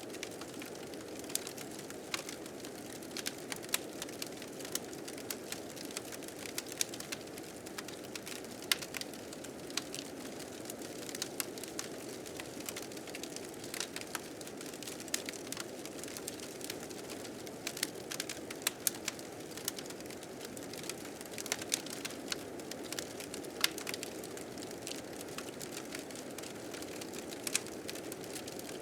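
Fire crackling with frequent irregular sharp pops, over a steady rushing blizzard wind.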